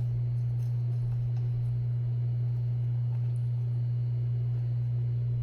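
A steady low hum, unchanging in pitch and level, with a few faint light clicks over it.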